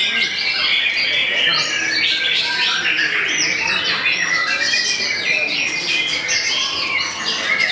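White-rumped shama (murai batu) singing a dense, unbroken run of loud, rapid, varied notes.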